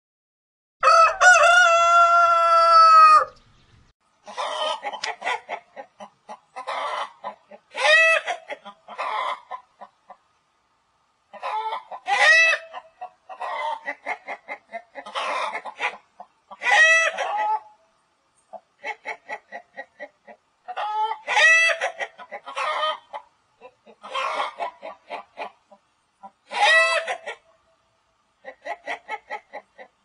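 A rooster crows once, a single long call about a second in. Then hens cluck in short choppy runs, with a louder drawn-out squawk about every four to five seconds.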